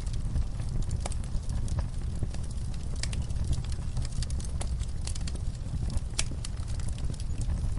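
Wood fire burning in a fireplace: a steady low rumble from the flames with frequent irregular crackles and pops, one sharper pop about six seconds in.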